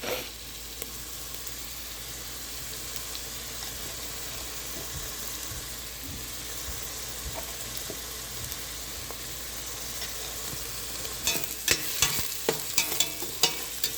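Chopped onions sizzling steadily in hot ghee and oil in a pressure cooker as they are sautéed. Near the end, stirring scrapes and clicks against the pot.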